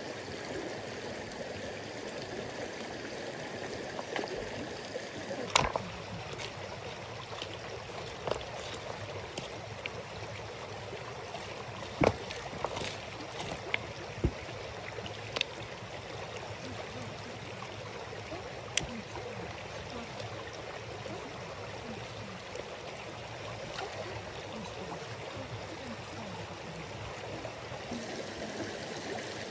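Steady rushing of a flowing stream, with a few sharp knocks or splashes scattered through it.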